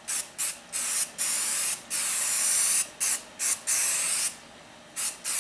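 Aerosol can of 3M Super 77 spray adhesive spraying in a string of hissing bursts, some short and some up to about a second long, with a brief pause near the end.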